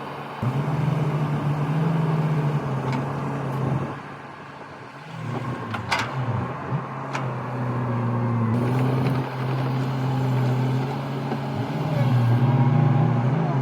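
Excavator's diesel engine running and working, its note easing off for a moment and then rising again, with a couple of sharp knocks about halfway through.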